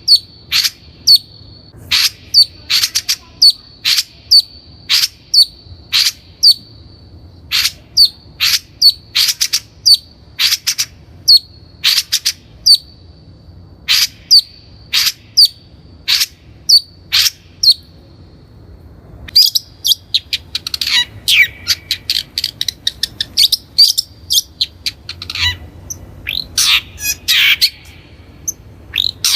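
Long-tailed shrike calling: sharp, harsh notes about two a second over a thin, steady high tone. About two-thirds of the way in, this gives way to a faster, denser run of varied chattering notes.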